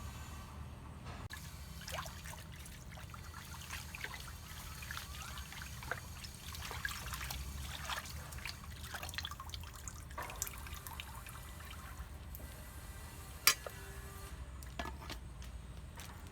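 Water trickling and dripping, with many small irregular ticks and splashes over a low steady hum, and one sharp click about thirteen seconds in.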